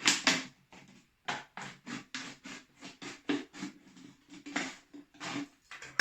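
Scissors snipping through a thin plastic drinking bottle, cutting round it in short crunchy snips, about three a second.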